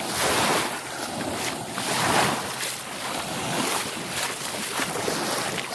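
Small waves breaking and washing up onto the shore in a steady rush that swells and eases every second or two.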